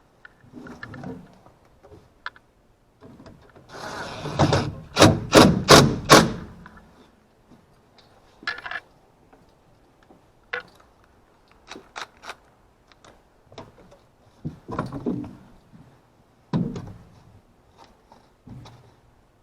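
Handling noise: scattered knocks and clicks, with a cluster of about five hard knocks a few seconds in.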